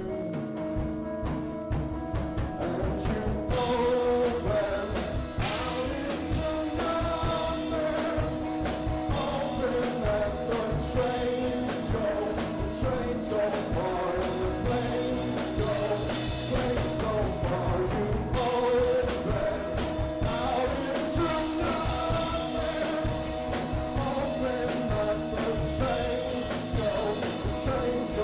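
Live rock band playing a song with singing; the sound gets fuller and brighter about three and a half seconds in.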